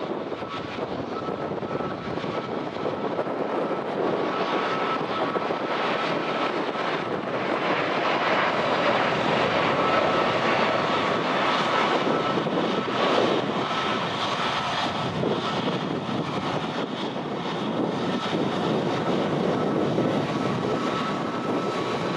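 Jet airliner engines running, a steady rushing noise with a faint high whine that builds to its loudest partway through, then eases.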